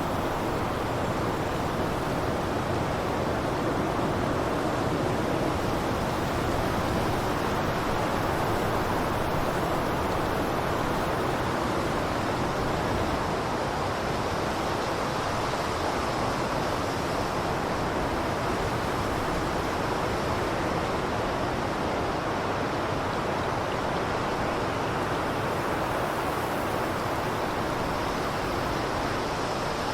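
Steady blizzard wind: a constant, even rush of noise with no gusts or breaks.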